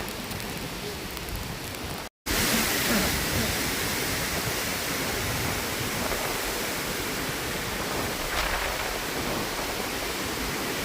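Steady rushing noise of storm weather, wind and rain, with a brief dropout about two seconds in, after which it comes back slightly louder.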